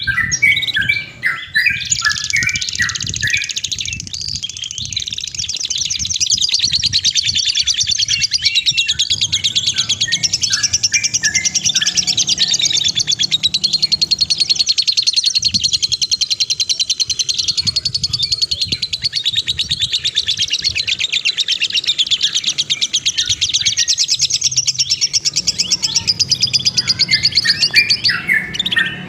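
A small songbird singing: a few quick chirps, then from about two seconds in a long, very rapid, high trill that runs unbroken for over twenty-five seconds before breaking back into chirps near the end.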